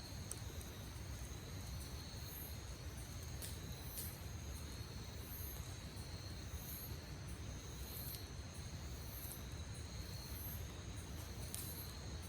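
Insects trilling steadily on two high, even tones, with a still higher chirp repeating about every half second, over a low rumble. A few sharp crackles from the campfire sound now and then.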